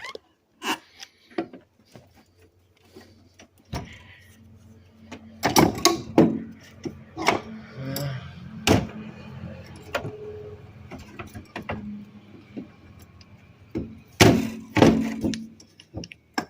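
Irregular knocks and clunks of metal parts and cables being handled and shifted on a golf cart, loudest in two clusters in the middle and near the end, over a faint steady hum.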